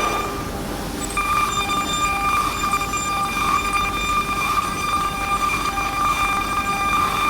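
A CNC router's 9 kW ATC spindle running with a steady high whine. The whine drops away briefly at the start and comes back about a second in.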